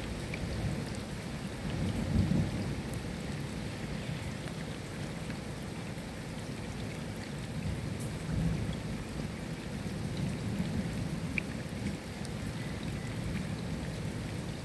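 Steady rain falling, with scattered sharper drop ticks and low rumbles of thunder swelling up a couple of times.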